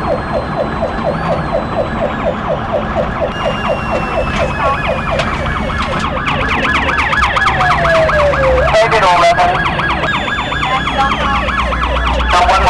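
Police car sirens in rapid yelp, about four sweeps a second, with a second siren sweeping higher and faster from about halfway through and a slow falling wail in between. Low engine and road rumble underneath.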